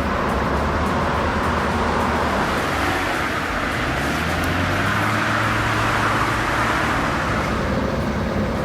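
A heavy engine running steadily under load, its pitch shifting slightly midway.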